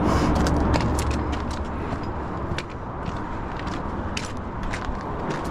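Steady low rumble of distant highway traffic, with scattered footsteps scuffing and clicking on a rocky trail.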